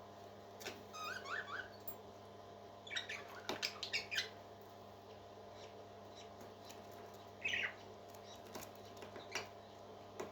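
Parrot chick making short high cheeps, a quick run of rising chirps about a second in and another cheep near the end, among small sharp clicks and taps, over a steady hum.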